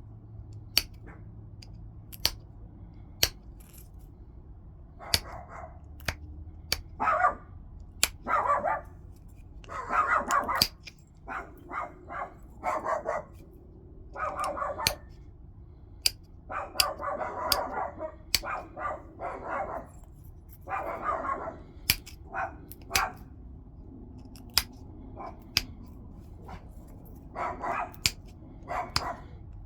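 Flintknapping on a stone point: sharp single clicks of flakes snapping off, alternating with scratchy scraping strokes, the sound of stone being worked against a tool and an abrader.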